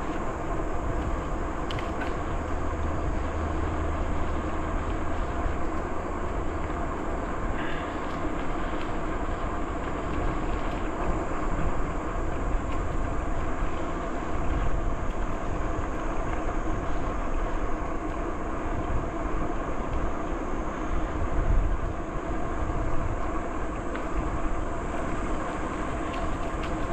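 Steady rolling noise of a bicycle being ridden: tyres on the trail surface and wind on the microphone, with a constant hum and an occasional light tick.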